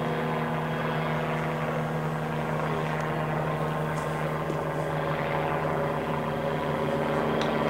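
Aircraft engine droning steadily overhead, a low hum with several steady tones in it.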